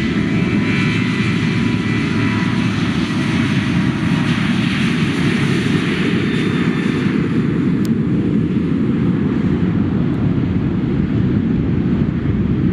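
Airliner engines running with a high whine that fades away over the first few seconds, over a steady low rumble.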